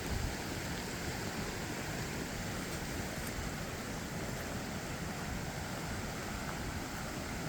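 Steady rushing of a rain-swollen stream in flood, an even hiss of water, with wind rumbling on the microphone.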